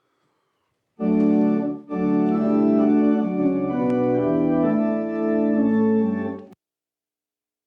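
Organ playing sustained, slowly changing chords as offertory music during the collection. It starts abruptly about a second in, breaks briefly, and cuts off suddenly near the end.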